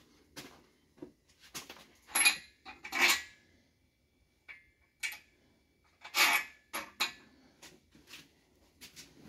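Metal tools and engine parts being handled, clinking and clattering in irregular knocks, with the loudest strikes about two and three seconds in and again around six seconds, some leaving a short metallic ring.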